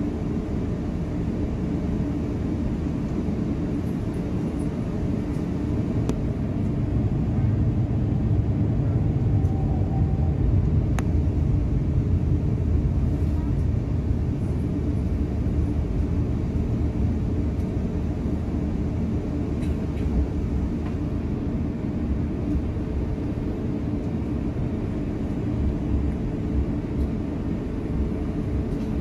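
Steady low rumble of engine and airflow noise heard inside the cabin of an Airbus A350-900 airliner, swelling a little partway through.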